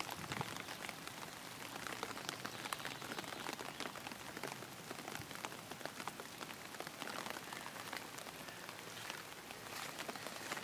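Steady rain falling on pond water, a continuous hiss dotted with many separate drop ticks.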